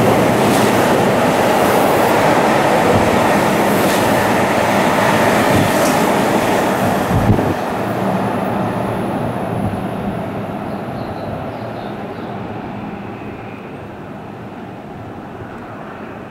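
Keihan 3000 series electric train running past the platform close by: a loud, steady rumble of wheels on rail with faint regular clicks about every two seconds. About halfway through it drops off abruptly to a quieter train sound further away that fades steadily.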